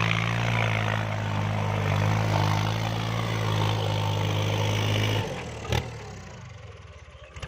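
Kubota L3218 tractor's diesel engine running steadily under load while pulling a rotary tiller. About five seconds in the engine sound drops away sharply, followed by a single sharp knock.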